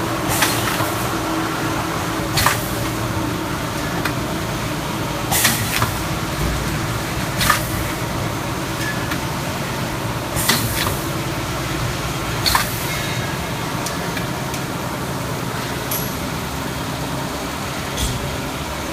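Four-lane automatic cup filling and sealing machine running: a steady mechanical hum with short, sharp hissing clacks every two to three seconds as it cycles through filling and sealing the cups.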